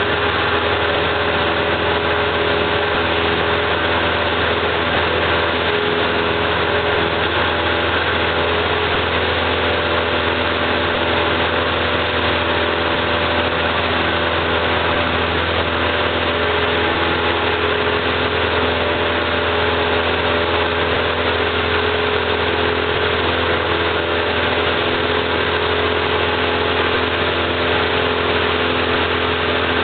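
Cessna 172's engine and propeller running with a steady, unchanging drone.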